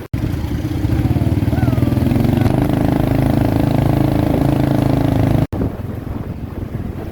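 Motorbike engine running steadily at speed, close to the microphone. After about five seconds it cuts to a quieter rush of wind noise.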